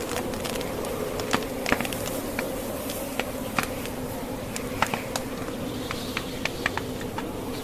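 Wood fire crackling in a fireplace, with irregular sharp pops of burning logs, over a steady low droning howl of wind from a blizzard.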